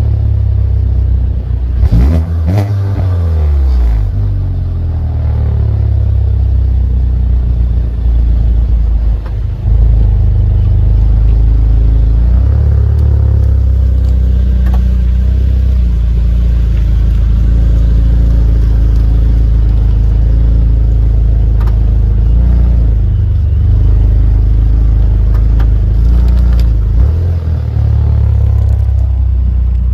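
Turbocharged Chevy Cruze with an aftermarket downpipe on the stock exhaust, running under way. The engine pitch rises and falls about two to three seconds in, then settles into a loud, steady low drone.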